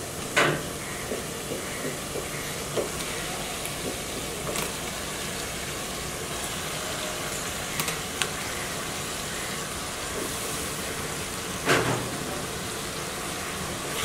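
Raw chicken pieces sizzling in a pan of hot oil and spice paste, a steady hiss, with a few sharp knocks of a wooden spatula against the pan, the loudest near the end.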